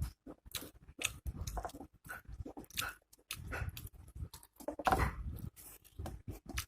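A person chewing food close to the microphone: wet mouth smacking and crunching in irregular bursts.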